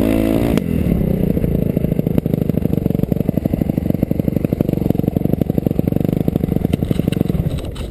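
Suzuki RM-Z250 motocross bike's four-stroke single-cylinder engine: a short rev in the first half-second, then a low, even chugging at low revs that fades near the end.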